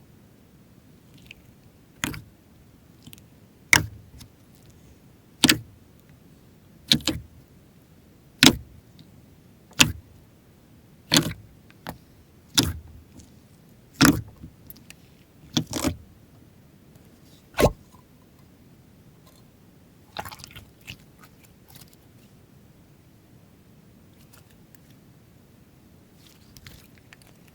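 Slime being worked by hand, with a sharp pop or snap about every second and a half, typical of air pockets bursting as the slime is pressed and folded. The pops stop a few seconds past halfway, and softer crackling follows.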